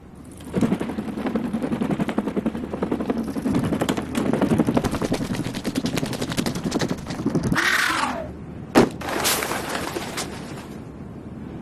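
Cartoon sound effects: a long, fast rattling clatter, then a falling whistle, a single sharp crack, and a short noisy rush that fades.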